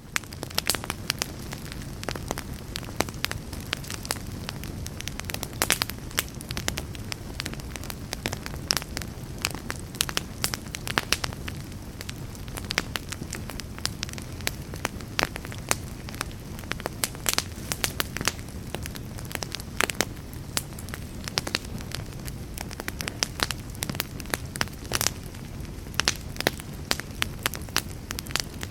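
Campfire burning steadily: many sharp, irregular crackles over a low, steady rushing of the flames.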